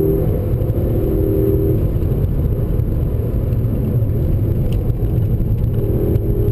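Volkswagen Golf GTI (MkVI) 2.0-litre turbocharged four-cylinder engine running under load with steady road and tyre rumble, heard from inside the cabin. A steady engine tone drops away about two seconds in and comes back near the end.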